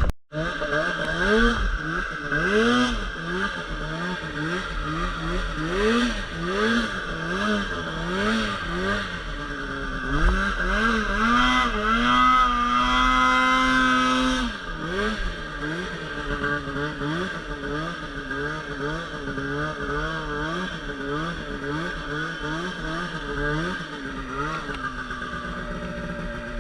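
Polaris RMK 800 two-stroke snowmobile engine revving up and down over and over, a throttle blip about every second. About halfway through it is held high for a couple of seconds, then drops back to the repeated blipping.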